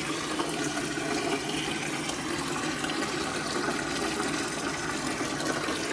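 Water pouring out in a steady stream as the oil pan of a flooded 1972 Corvette's 350 V8 is drained: flood water has got into the engine oil.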